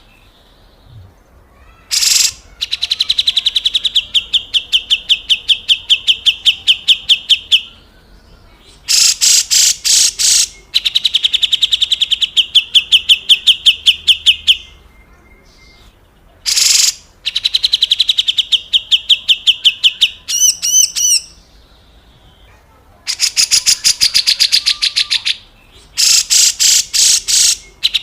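Grey-cheeked bulbul (cucak jenggot) giving its harsh, rasping 'besetan kasar' call: long runs of fast repeated notes lasting a few seconds each, broken by short pauses, with a brief warbled phrase about two-thirds of the way through.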